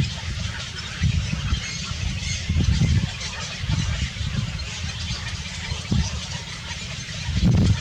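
Waterfowl squawking, with a low rumble that swells and fades every second or two underneath.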